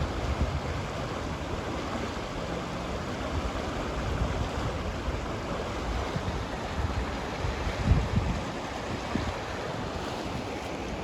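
Steady, even hiss with wind buffeting the microphone in low rumbling gusts, the strongest about eight seconds in.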